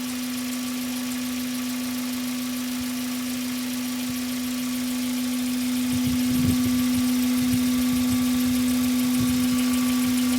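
Hyundai Coupé Tuscani engine running steadily with a constant hum. It grows a little louder about five seconds in, with a few irregular low rumbles around six to seven seconds.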